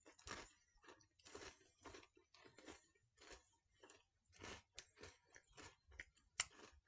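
Faint chewing of Crunchy Cookie M&M's: irregular crisp crunches as the candy shells and crispy centres are broken up in the mouth.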